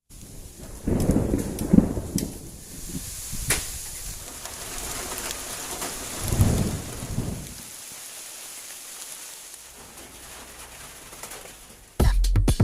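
Rain falling steadily, with two rolls of thunder, one about a second in and another about six seconds in. Music with a beat starts near the end.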